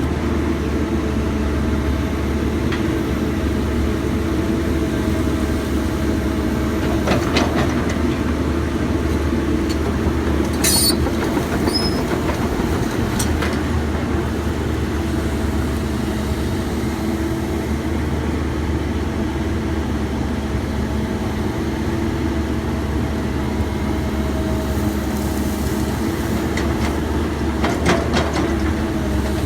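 Excavator's diesel engine running steadily under load, with a few sharp metallic clanks and knocks now and then.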